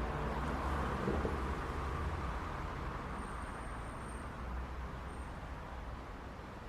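City street traffic: a steady rumble of cars and tyre noise, swelling as a vehicle passes close about a second in, then slowly easing off.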